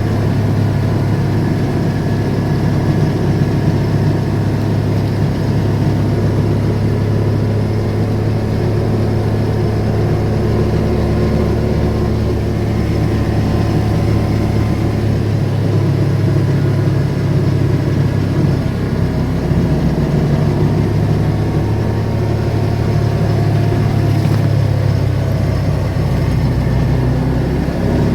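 Car driving at a steady pace: a constant low engine and road drone.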